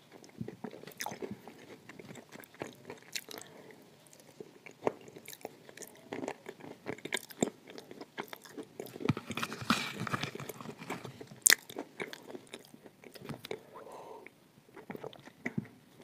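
Close-miked chewing and crunching of spoonfuls of edible clay: a crumbly, wet mouthful broken down with irregular crisp crunches and mouth clicks, busiest a little past the middle, with one sharp click about eleven and a half seconds in.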